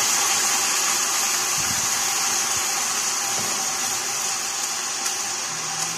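Meat frying in a large stainless steel pot, a steady sizzling hiss that slowly dies down, with a few faint knocks.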